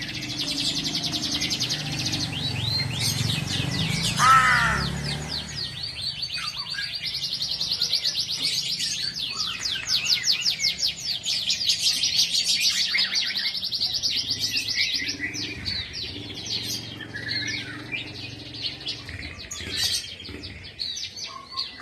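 Small birds chirping in fast, continuous trills, with a crow cawing loudly once about four seconds in and again at the end.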